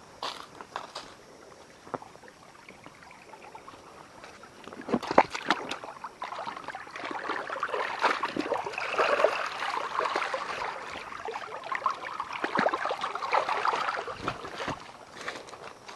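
Water sloshing and splashing with a few sharp knocks: quiet clicks at first, then steady splashing from about five seconds in that dies away near the end.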